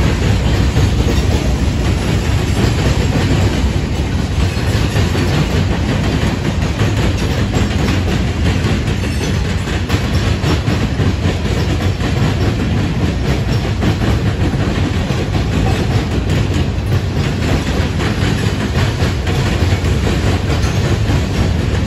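Manifest freight train's covered hoppers and tank cars rolling past at speed: a loud, steady rumble of steel wheels on the rails, with the clickety-clack of wheels over rail joints.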